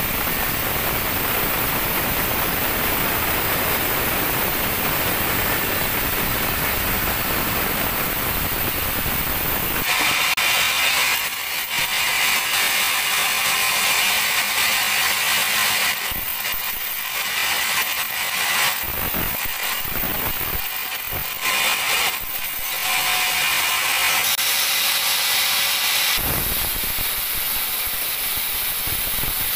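Sawmill band saw running through a teak log: a steady, noisy machine sound. About a third of the way in the low rumble gives way to a bright hiss, which breaks and changes several times.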